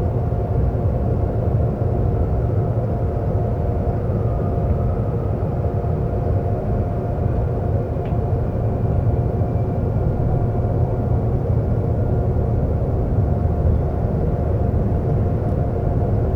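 Seoul subway train running steadily: a constant low rumble with a steady hum over it.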